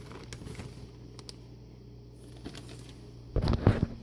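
Light kitchen handling noise from a tablespoon and bowl, then a brief clatter about three and a half seconds in as a spoonful of chopped red onion is knocked into the bowl of ground beef.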